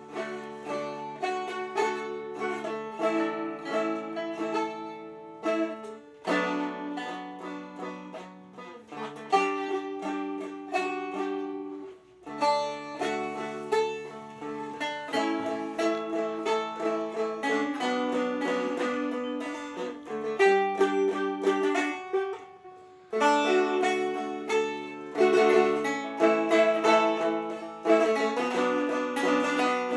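Two Seagull Merlin dulcimers playing an improvisation: a plucked melody over held, ringing low notes, in phrases broken by short pauses about 6, 12 and 23 seconds in.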